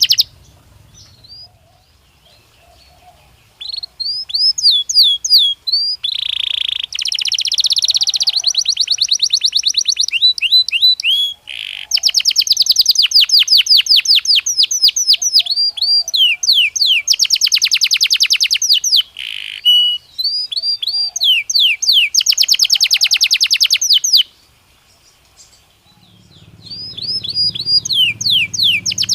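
Belgian canary singing in long phrases of fast rolling trills and repeated sweeping whistled notes. The song starts a few seconds in, breaks off briefly near the end, then resumes.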